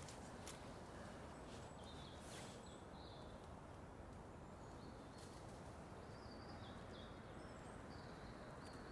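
Faint small-songbird calls: short, high chirps scattered through, over a low, steady outdoor background hum.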